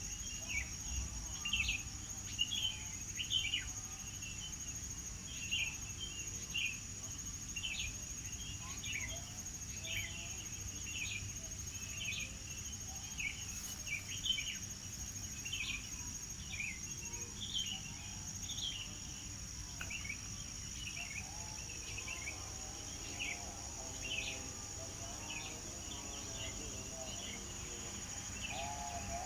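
Birds chirping in quick, short repeated calls, about one or two a second, over a steady high-pitched insect trill.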